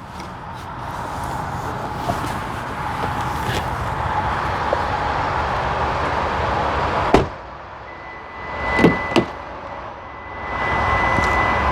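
A car door shuts with a solid thud about seven seconds in, cutting off a steady rush of background noise. A second or two later come the sharp clicks of a door handle and latch as another door is opened, and a thin steady electronic chime from the car sounds from about eight seconds on.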